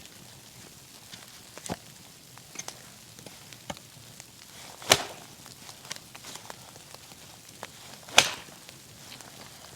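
Wood cracking and snapping: a few sharp cracks over a faint steady hiss, the two loudest about five and eight seconds in.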